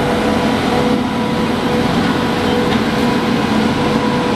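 Steady running noise of a passenger train in motion, heard from on board, with a constant hum throughout.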